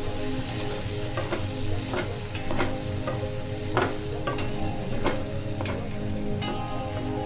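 Food sizzling and frying in a pan while a spoon stirs it, knocking and scraping against the pan a dozen or so times at an uneven pace.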